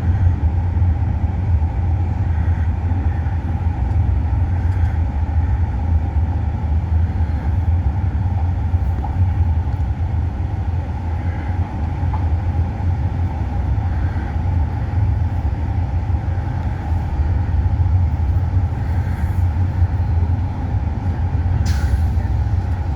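Small bus driving, heard from inside: a steady low engine and road rumble.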